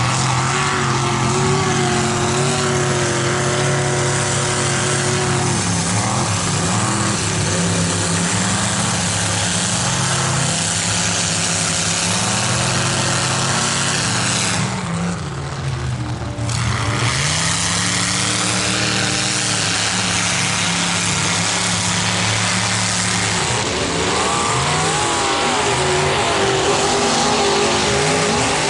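Mega mud truck engine running hard at high revs, its pitch rising and falling with the throttle. It eases off briefly about halfway and winds up again near the end.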